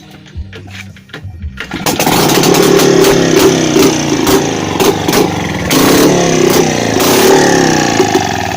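Izh Planeta 5's single-cylinder two-stroke engine running with no exhaust pipe, an open, very loud exhaust note. It comes in loud about two seconds in and rises and falls in pitch as it is revved.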